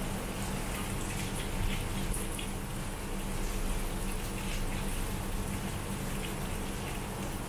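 Heavy rain falling steadily, with scattered drips and splashes and a low steady hum underneath.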